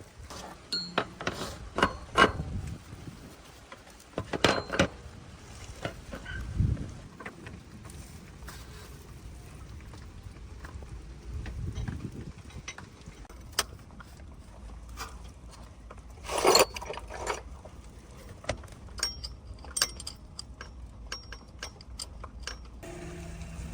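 Irregular clinks and knocks of metal parts and tools being handled, with the loudest knocks about 2, 4.5 and 16.5 seconds in.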